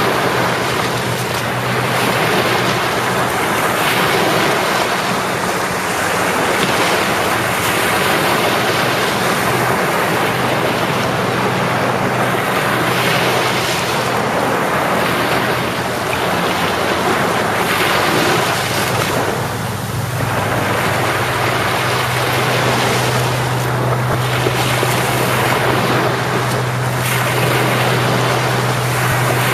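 Sea waves washing onto the shore in a continuous surf, swelling and easing. A low steady hum runs underneath and grows stronger about two-thirds of the way through.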